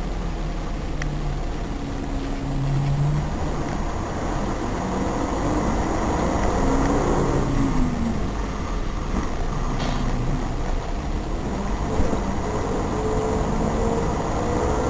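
Road traffic: vehicle engines running over a steady low road rumble, their pitch shifting and gliding as they rev and pass.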